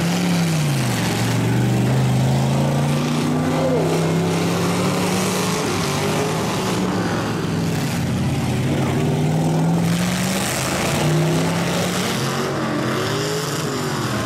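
Several demolition-derby trucks' engines running and revving together. One revs up and drops back right at the start, while others hold steady or climb slowly.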